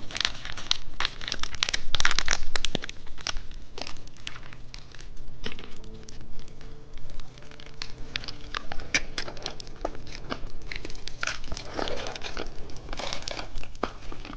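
Plastic candy packaging crinkling and rustling as it is handled, with many irregular sharp clicks and crackles.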